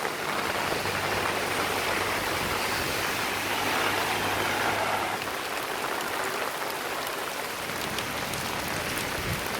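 Rain falling steadily, an even hiss of water. A low hum runs under it and stops about halfway through.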